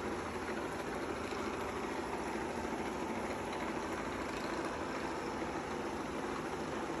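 Shark robot vacuum cleaner running, a steady even whir of its motor and brushes as it drives across the floor on its way back to its docking station.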